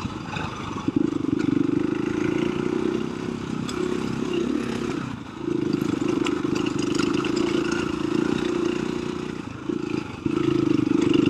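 KTM 350 EXC-f single-cylinder four-stroke dirt bike engine running steadily under throttle while riding over desert whoops. The throttle is rolled off briefly about five seconds in and again around ten seconds, then picked back up.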